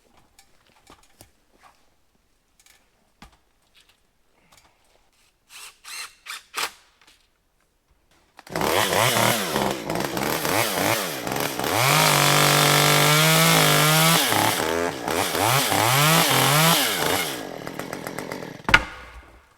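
A few faint knocks, then a two-stroke chainsaw comes in suddenly, revving up and down and running at high speed for several seconds before dying away near the end.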